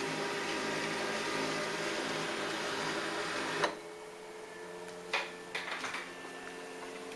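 Samsung ML-1750 laser printer running as it prints a test page, a steady mechanical whirr that stops with a sharp click about halfway through. A quieter hum carries on, with a short cluster of clicks a second or two later.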